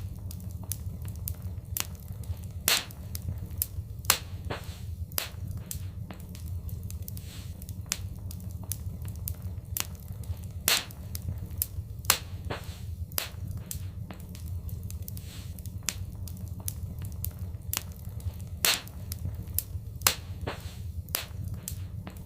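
Wood fire crackling in a fireplace: irregular sharp snaps and pops, a handful louder than the rest, over a steady low rumble.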